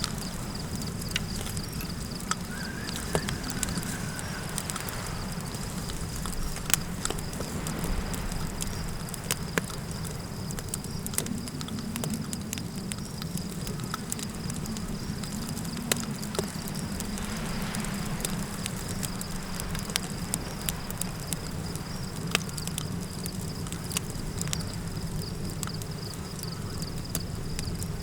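Campfire crackling with scattered sharp pops, over a steady low rumble of wind and a thin, steady high tone.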